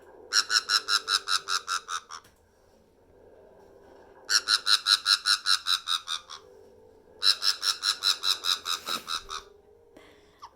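Black-headed caique parrot laughing: three bursts of a fast, evenly repeated 'ha-ha-ha' call, each about two seconds long with short pauses between.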